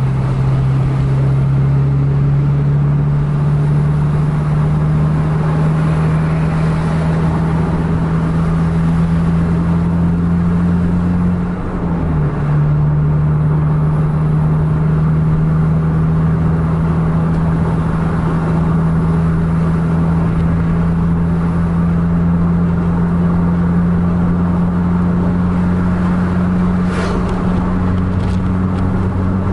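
Vehicle engine running hard at speed, heard from inside the cabin over road noise: a steady droning hum that climbs slowly in pitch, dips briefly about twelve seconds in as it changes gear, then pulls on again.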